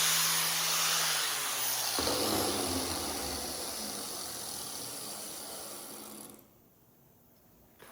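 Angle grinder with a flap disc working steel: a grinding hiss that fades away over about six seconds, then cuts off.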